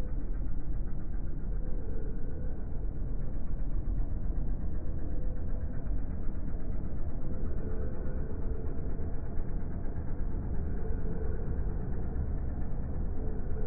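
Low, steady rumble of road vehicles and their engines.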